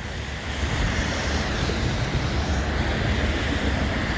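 CN freight train's cars rolling past, a steady rumble of wheels on rail that grows a little louder about half a second in.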